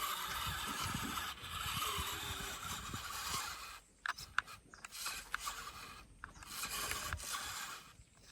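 Remote-control toy tractor's small electric motor and plastic gearbox whirring as it drives. The whirring stops after about three and a half seconds, gives way to a few sharp clicks, and starts again for a second run near the end.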